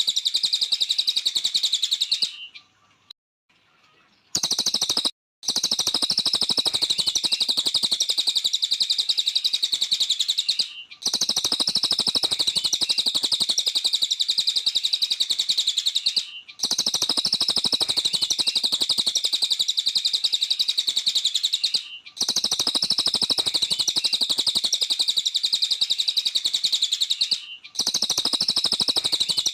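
A cililin songbird singing a fast, unbroken string of high chirps. The song breaks off briefly about every five and a half seconds and resumes the same way, with a longer pause a couple of seconds in.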